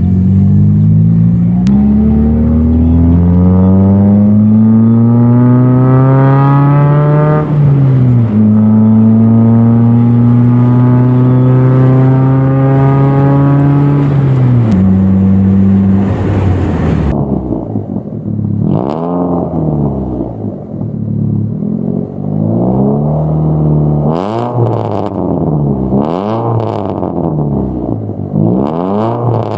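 Proton Campro 1.6 four-cylinder engine through a 4-2-1 extractor and JS Racing muffler. The revs climb for about seven seconds, drop with a shift, hold steady, then fall away. In the second half there is a run of short throttle blips, each rising and falling, about one every second and a half.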